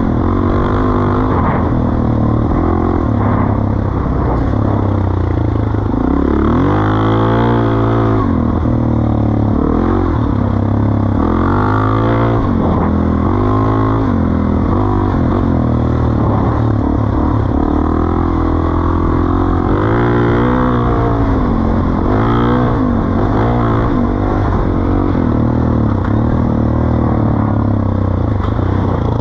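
Suzuki DR-Z400E single-cylinder four-stroke engine running through a Pro Circuit T-4 exhaust, revving up and falling back several times.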